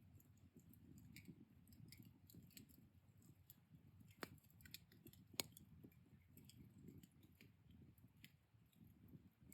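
Wood fire burned down to embers, crackling faintly with scattered small pops over a low, steady rumble. Two sharper pops stand out, about four and five and a half seconds in.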